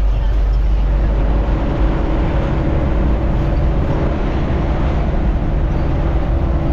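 Truck driving along the road: a steady, loud low rumble of engine and road noise, with a faint steady hum that comes in about a second in.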